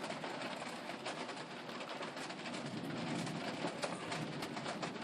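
Heavy rain mixed with hail pelting down: a dense, steady patter of countless small hits.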